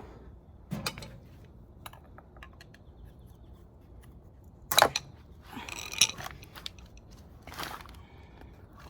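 Tools and metal engine parts clinking and knocking while a motorcycle engine's top end is taken apart: a few separate sharp knocks, the loudest about five seconds in, with a short scraping rattle around six seconds.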